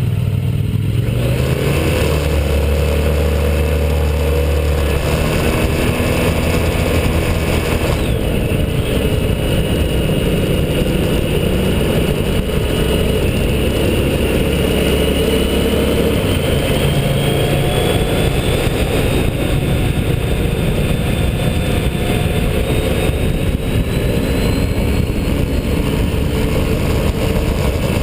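Motorcycle engine running hard at track speed, its pitch slowly rising and falling as the revs change.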